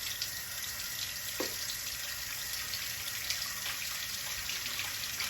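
Pot of chicken-and-dumpling broth simmering on the stove: a steady watery hiss with a few faint ticks.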